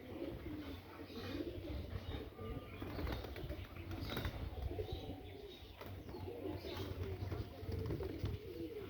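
Domestic pigeons cooing over and over, several calls overlapping, with scattered short knocks.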